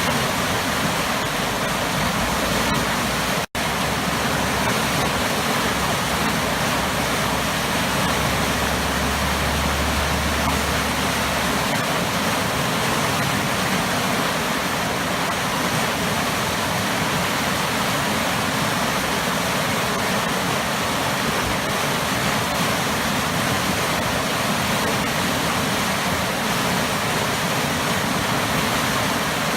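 Waterfall with a powerful, churning plunge pool: a steady, dense rush of falling water with a low rumble under it for the first dozen seconds. The sound cuts out for an instant about three and a half seconds in.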